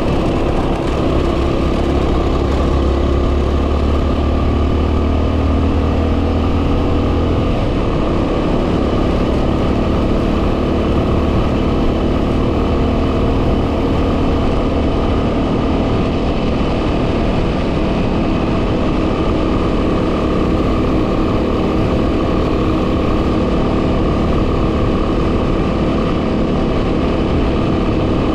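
2010 Yamaha WR250R's single-cylinder four-stroke engine running under way, buried in heavy wind noise on the microphone. The engine note changes about seven and a half seconds in.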